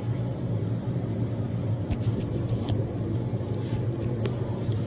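A steady low mechanical hum, with a few light clicks and knocks as small metal parts are taken off during disassembly.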